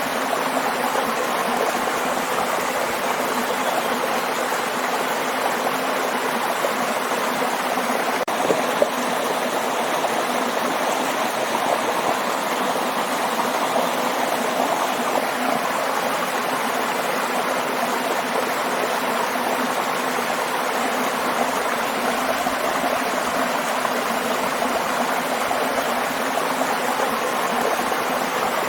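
Waterfall: water rushing steadily without a break, with a single brief click about eight and a half seconds in.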